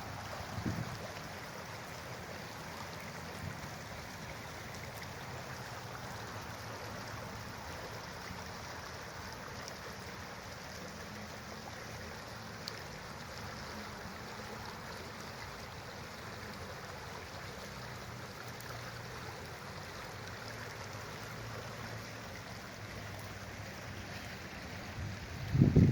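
Flowing river or stream water, a steady rushing hiss, with a short low thump near the end.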